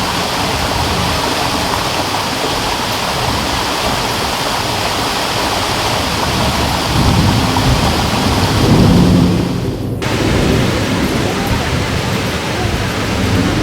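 Rushing water, a loud steady wash with a low rumble that swells after about seven seconds. About ten seconds in, the hiss abruptly loses its bright top and goes on duller.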